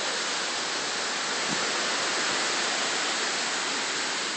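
Steady rushing hiss of a hurricane storm, even and unbroken.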